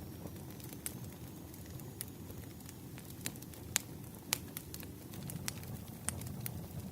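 Wood fire crackling: scattered sharp pops and snaps over a steady low rumble of burning logs, with the loudest two pops a little before and after the middle.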